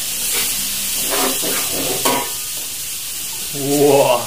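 Spice paste sizzling in hot oil in a wok, stirred with a metal spatula that scrapes the pan a few times.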